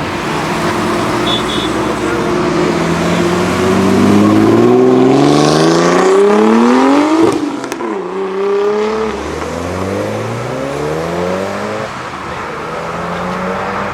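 A modified car's engine accelerating hard away, rising steadily in pitch as it revs. It drops sharply at an upshift about seven seconds in, then climbs again through further gear changes.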